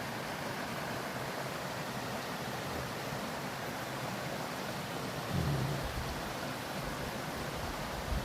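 Mountain stream flowing, a steady even rush of water, with a low thump about five seconds in.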